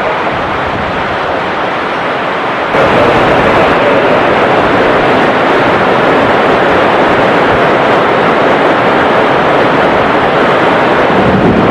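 Steady rushing noise of heavy rain and strong wind mixed with jet airliner engines. It steps up suddenly louder about three seconds in, then holds steady.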